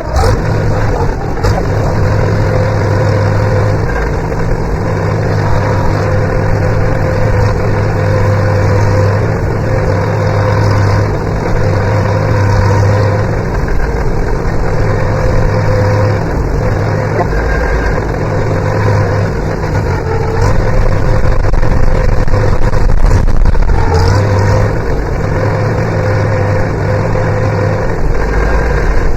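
Tractor engine running steadily at low speed, getting somewhat louder for a few seconds about two-thirds of the way through.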